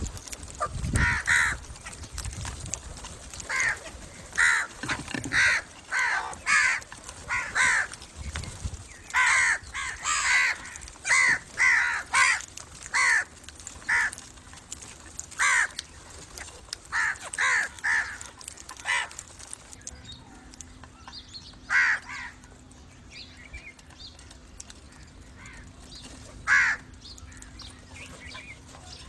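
Crows cawing: a quick run of short caws, one after another, then only a couple of single caws spaced well apart near the end.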